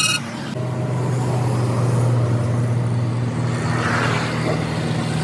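A vehicle engine running steadily with a low droning hum, and a brief hiss about four seconds in.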